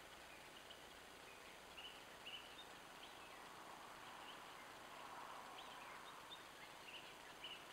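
Faint, scattered short bird chirps, a dozen or so, over near-silent outdoor background hiss.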